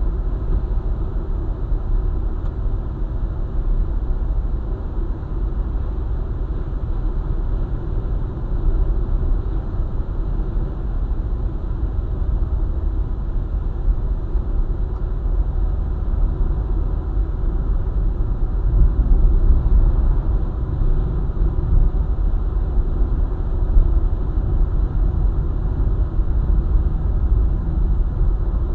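Car driving along a highway: a steady low rumble of engine and tyres on the road, swelling slightly about two-thirds of the way through.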